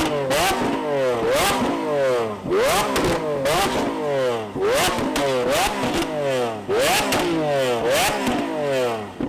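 Two Lamborghini Aventadors' naturally aspirated V12 engines revved over and over, each blip rising quickly in pitch and falling back, about once a second. The revving stops abruptly near the end.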